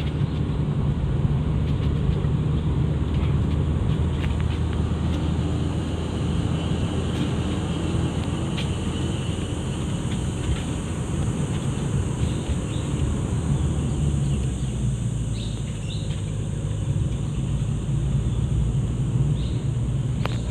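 A vehicle engine running steadily with road noise while driving along a forest road. Over roughly the first half a shrill insect drone rises above it, and a few short bird chirps come near the end.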